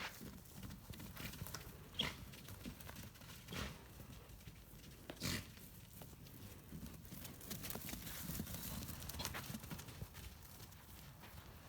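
Hoofbeats of miniature donkeys running: irregular, fairly faint knocks of hooves on the ground, with a few louder ones scattered through.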